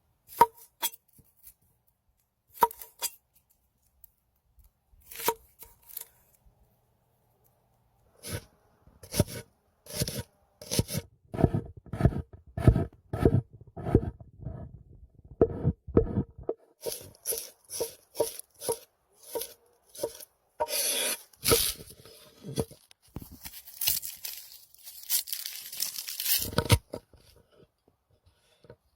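Chopping on a board: a few scattered knocks, then a steady run of strokes that speeds up, followed by a few seconds of rough tearing, scraping noise that stops suddenly near the end.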